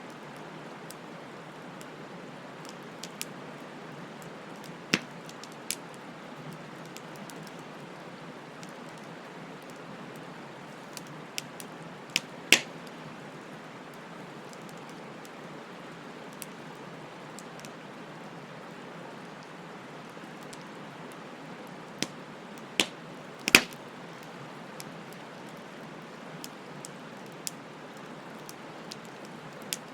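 Wood bonfire burning: a steady soft hiss with scattered crackles and sharp pops. The two loudest pops come about twelve seconds in and again near twenty-three seconds.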